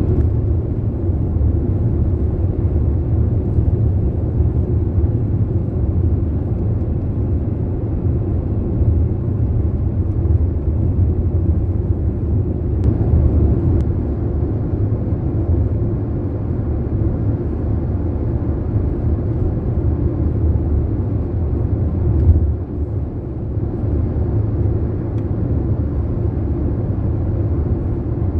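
Steady low rumble of a car driving on a paved highway, heard from inside the cabin: tyre and engine noise.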